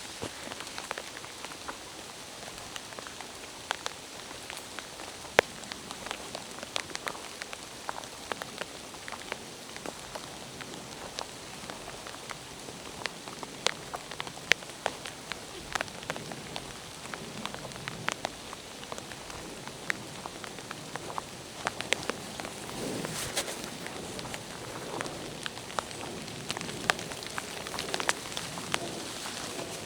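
Steady rain falling in a forest, with many sharp, irregular drop ticks close by.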